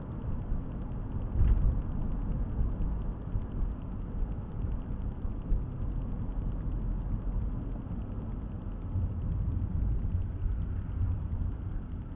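Car driving, heard from inside the cabin: a steady low rumble of engine and tyres on the road, with a brief thump about one and a half seconds in.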